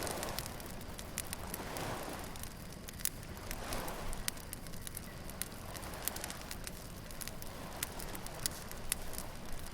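Beach bonfire crackling and popping, with many sharp snaps from burning wood, over a soft wash of surf that swells a few times in the first half.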